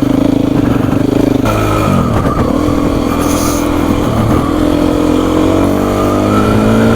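Beta 350 RR single-cylinder four-stroke dirt bike engine running while ridden on a trail. Its pitch holds, drops about a second and a half in, dips again around four seconds, then climbs slowly.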